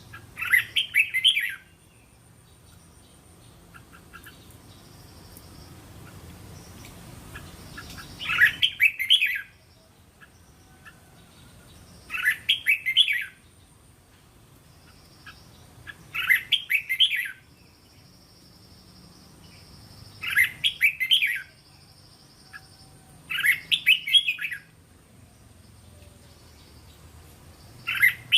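Red-whiskered bulbul singing: short phrases of several quick notes, repeated about every four seconds, seven times.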